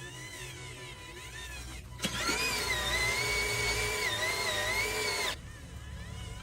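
A small electric motor of a radio-controlled construction model whining at a steady, slightly wavering pitch. It starts abruptly about two seconds in and cuts off sharply about three seconds later, over quiet background music.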